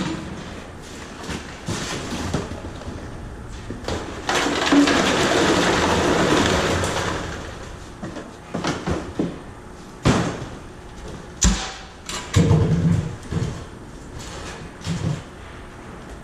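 Work at a PET mini baler: scattered knocks and clatter, with about three seconds of rushing noise a few seconds in and a cluster of heavier thumps after the middle.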